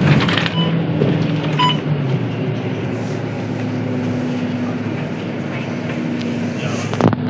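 Scania K230UB bus's five-cylinder diesel engine running steadily, its note stepping up about halfway through. There are two short electronic beeps about a second in and a knock near the end.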